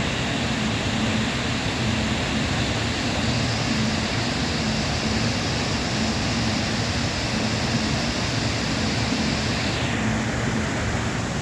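Steady loud noise of rushing water, typical of a mountain waterfall. A higher hiss joins about three seconds in and drops away near the end.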